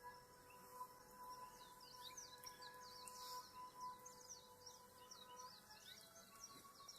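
Faint birdsong: many quick, high chirps sliding downward, thickest through the middle and later part, over a faint steady hum.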